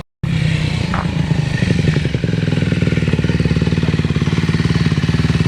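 A four-stroke dirt bike engine running at a steady, even beat, cutting in after a split second of silence.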